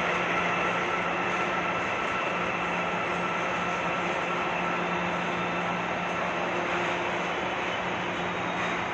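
Metro train running on the track: a steady rolling rumble with a low electric hum and a faint whine that fades about six seconds in.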